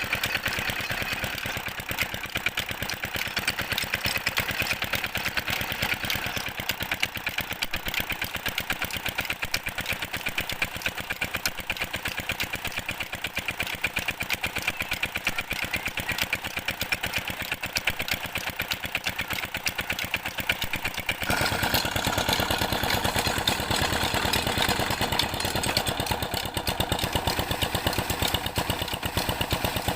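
Diesel engine of a tube well water pump running steadily, with a rapid, even beat of firing strokes. About 21 seconds in, the sound suddenly becomes fuller and slightly louder.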